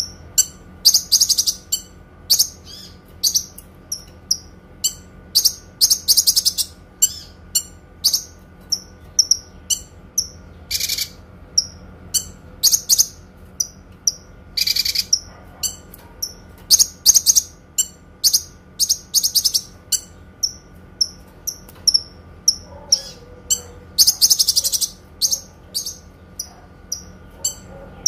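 A kinoi songbird singing: sharp, high chip notes at about two a second, broken several times by fast trilled bursts of about a second each, the 'long shots' that bird keepers use as tutoring song.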